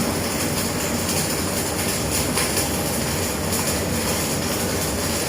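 Welding arc crackling and hissing steadily while a corner weld is laid.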